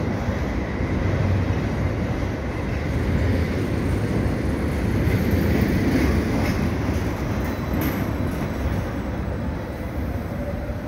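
Freight train's tarpaulin-covered wagons rolling past on the rails: a steady, continuous rumble of wheels on track.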